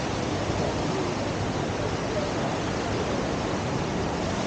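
Steady rush of fast river water pouring over a standing surf wave, an even roar with no breaks.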